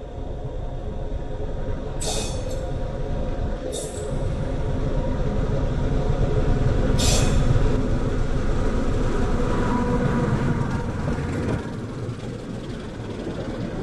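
Diesel locomotive hauling a passenger train approaches and rolls close past, a steady low rumble that grows louder over the first several seconds. Three short high-pitched bursts cut through it about 2, 4 and 7 seconds in.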